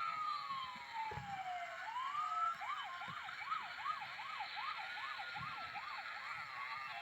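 Emergency-vehicle siren: a slow wail falling in pitch, then switching to a fast yelp of about three rises a second, slowing back toward a wail near the end.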